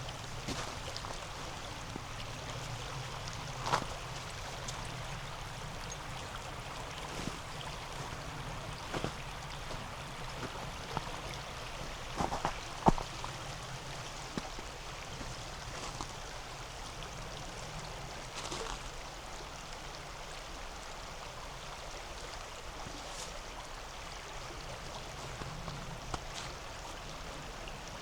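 Steady rush of a mountain river flowing, with a few scattered sharp clicks, the loudest about a third and halfway through.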